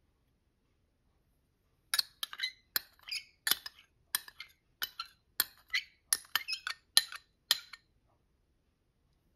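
A utensil clinking repeatedly against a glass bowl while stirring, in quick irregular strikes that start about two seconds in and stop near the end.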